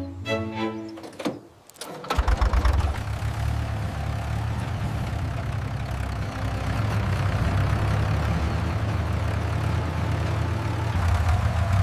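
A mini tractor's engine starts about two seconds in and then runs steadily with a low, even hum. Brief music plays before it starts.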